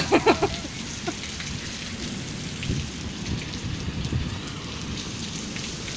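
Heavy rain falling steadily in a long downpour.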